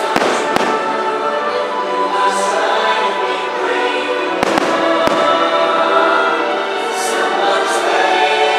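Fireworks show music playing steadily while aerial fireworks shells burst with sharp bangs, two just after the start and three more in quick succession around the middle.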